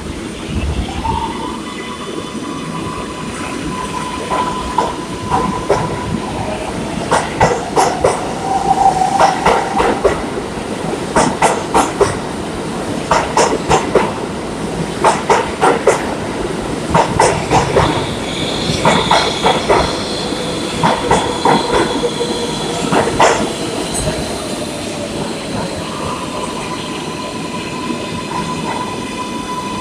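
Kawasaki R142A New York City subway train running: a motor whine climbs and then holds steady about a second in. From about seven seconds to twenty-four seconds, groups of wheel clicks come every second or two as the wheels cross rail joints, under held squealing and whining tones from the wheels and motors.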